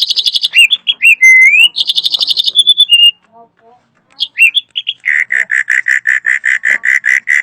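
Drongo singing a loud, varied song: rapid buzzy trills and short whistled notes with a rising slide, then after a brief pause a fast run of about fifteen repeated notes, about six a second, that stops abruptly near the end.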